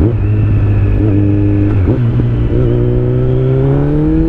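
Kawasaki Z900's inline-four engine through an Akrapovic exhaust, pulling on the road under throttle. The note breaks briefly about two seconds in, then rises steadily as the bike accelerates.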